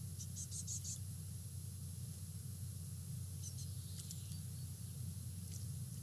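Faint high-pitched chirps of small garden birds: a quick run of about five in the first second, then a few single chirps later, over a steady low hum.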